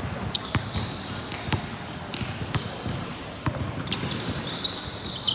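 Basketball bouncing on a court floor, a few irregular sharp bounces, with sneakers squeaking briefly, most strongly near the end.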